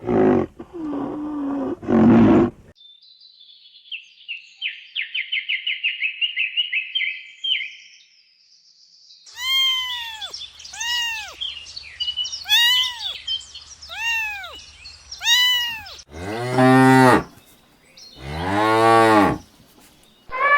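A sequence of different animal calls: low calls at the start, a fast high chattering trill, then a run of about eight short high calls, each rising and falling. Near the end two long, deep cow moos.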